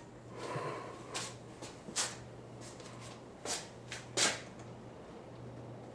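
Air Cool AC552AL ceiling fan (1987) running on low speed with a steady low motor hum, the hum typical of Air Cool fans of that era. A few short clicks come in over the first four seconds or so.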